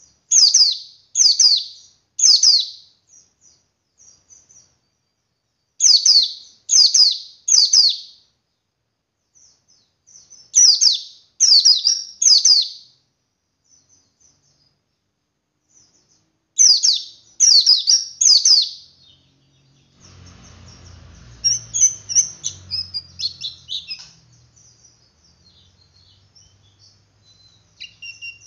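Male white-eye (pleci) calling: loud, sharp, downward-sweeping high notes in groups of three, repeated about every five seconds with soft twitters in between. About two-thirds of the way through it changes to a quick run of chattering twitters over a faint low hum. This is the continuous 'ngeriwik' call that keepers play to stir other pleci into singing.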